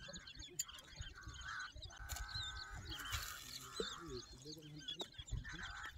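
Birds calling over open water: many short, high chirps throughout, with a few longer, lower calls in the first half.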